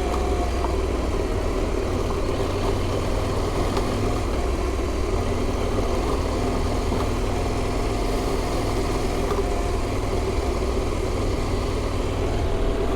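KTM adventure motorcycle engine running at a fairly steady pace while riding along a track, with a strong low rumble and wind noise, heard through the rider's in-helmet microphone.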